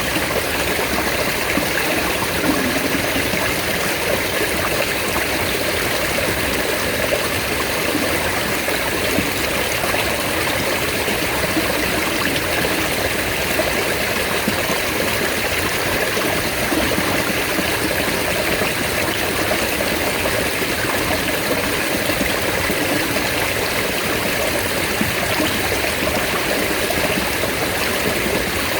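Mountain water flowing steadily over rocks, a continuous rushing sound with no breaks or changes.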